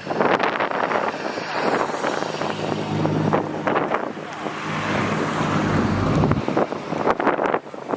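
Strong gusting wind buffeting the microphone, with a car engine running past at low revs through the middle, fading out about six seconds in.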